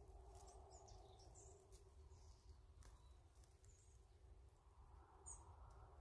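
Near silence: faint outdoor ambience with a few short, high bird chirps scattered through it and a couple of faint clicks.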